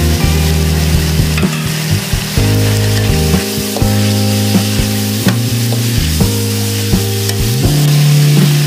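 Diced vegetables sizzling as they stir-fry in a hot wok, with the spatula scraping and clicking against the pan. Low sustained notes of background music play underneath.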